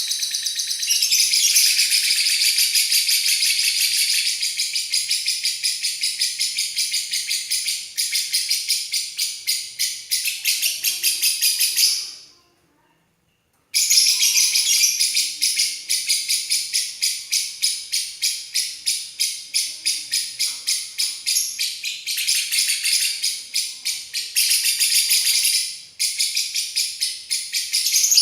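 Lovebird chattering in long, rapid, high-pitched trills that run almost without a break. The trilling stops for about a second and a half around halfway through.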